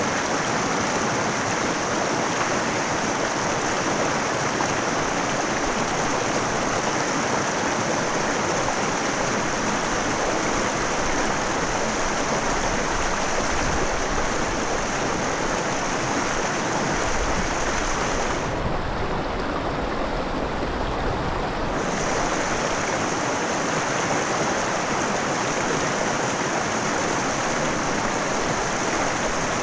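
Mountain river running over rocks: a steady rush of flowing water. A high, thin hiss over it falls away for about three seconds past the middle, then returns.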